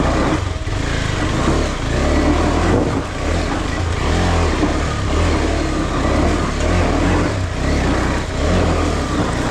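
Off-road motorcycle engine running under uneven throttle, its revs rising and falling as it works over rough rocky ground.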